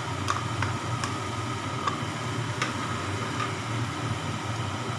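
Onion and garlic paste frying in a nonstick pan while a wooden spatula stirs it, with a few light taps on the pan. Under it runs a steady low hum.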